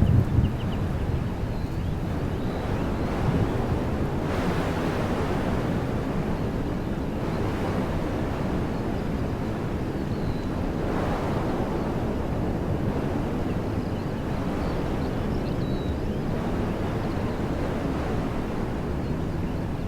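Wind blowing through trees, a steady rushing that swells in gusts every few seconds, with a brief low buffet of wind on the microphone right at the start.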